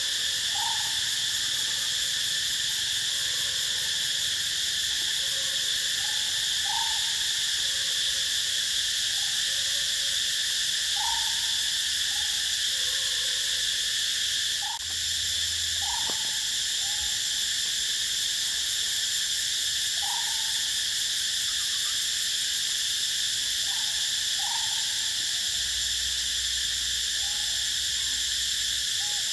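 Steady, shrill chorus of insects, with short falling calls from an animal every couple of seconds.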